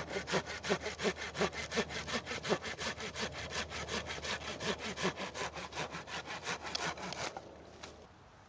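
Hand saw cutting through a wooden branch or log in quick, even back-and-forth strokes, stopping about seven seconds in.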